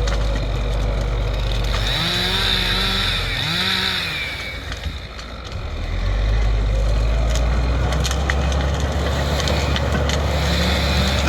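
Heavy diesel engine running steadily. It eases off for a few seconds near the middle, then picks up again, with scattered cracks and snaps over it.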